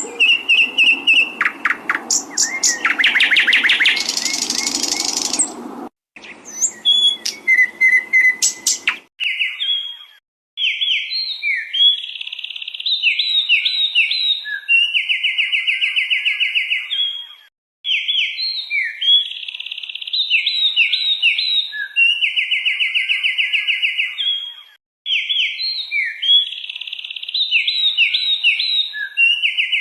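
Songbird song from a masteran tutor recording for cage birds. For about nine seconds a bird sings dense, rapid song. After that a different phrase of sliding whistles and fast buzzy trills repeats as a loop about every seven seconds, with a short silence before each repeat.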